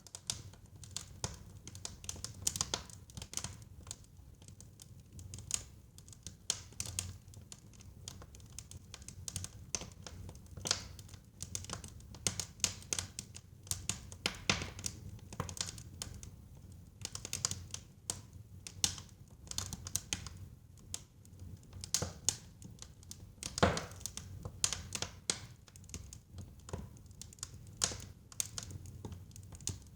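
Wood fire crackling in a fireplace: irregular sharp pops and snaps over a low steady rumble of the flames, with one louder pop about two-thirds of the way through.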